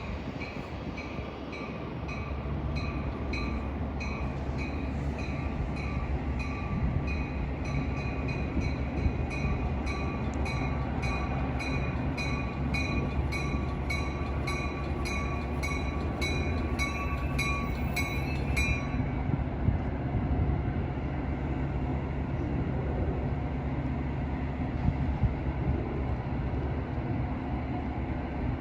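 Metra commuter train running with a steady low rumble while a bell rings about twice a second; the bell stops abruptly about two-thirds of the way in and the train rumble carries on.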